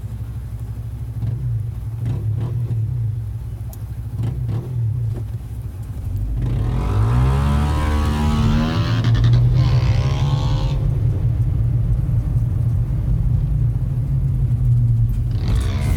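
A low, steady engine hum, then about six seconds in a motorcycle engine revs hard and climbs in pitch through several gears for about four seconds as it accelerates away, with another rising rev near the end.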